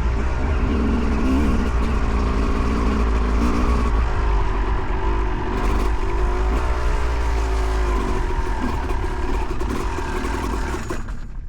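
2008 Yamaha YZ250 two-stroke dirt bike engine being ridden, its note rising and falling as the throttle is worked, then dropping away near the end.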